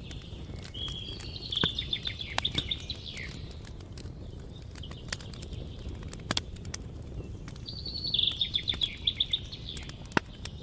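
A songbird sings a fast trilled song twice, about a second in and again near the end, over a crackling campfire with sharp scattered pops.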